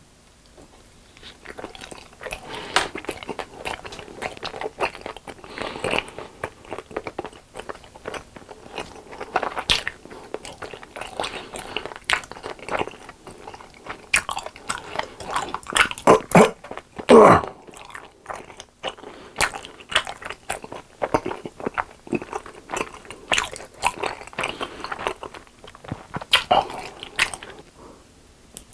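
Close-up eating sounds: repeated crunchy bites and chewing, with a louder stretch about two-thirds of the way through.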